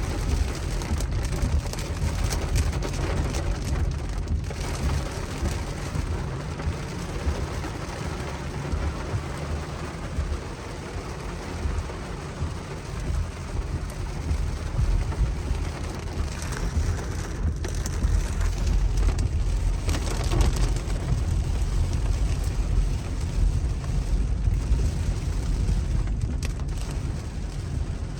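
Steady road noise inside a moving car: a heavy low rumble with an even hiss of tyres and wind over it.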